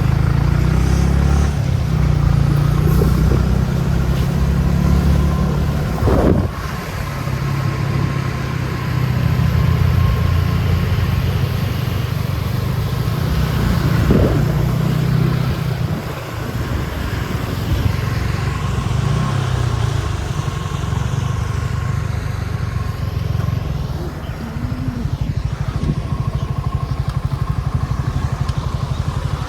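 Motorcycle engine running steadily on the move, with a brief drop in loudness about six seconds in and again about sixteen seconds in.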